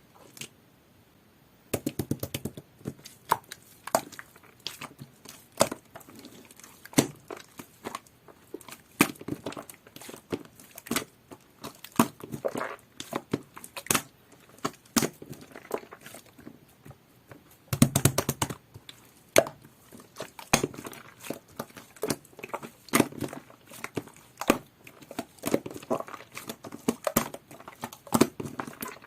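Hands squishing, stretching and folding slime mixed with shaving foam, making dense irregular crackles, pops and wet squelches, starting about two seconds in.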